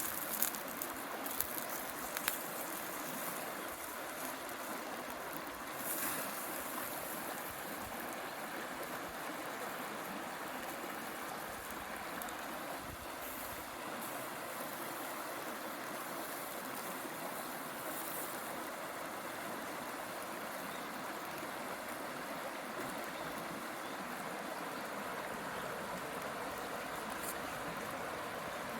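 River water flowing steadily, with a few short clicks now and then.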